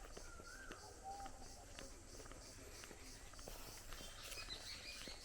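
Faint rural ambience of birds calling: a short rising call near the start, a lower call about a second in, and high twittering near the end. Behind them runs a high, even pulsing chirr about three times a second.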